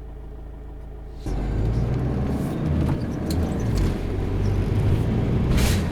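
Van driving on a road: a steady low engine and road hum that turns abruptly much louder about a second in, carrying on as a loud rumbling road noise.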